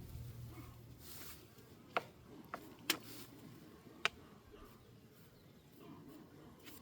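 Honeybees buzzing at an opened hive, with four sharp clicks in the middle, the loudest sounds.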